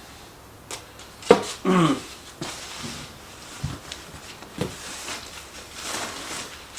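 Handling sounds of a kit being unpacked from a cardboard box: scattered knocks and clicks, short bursts of rustling and one dull thud, with a brief pitched vocal sound about two seconds in.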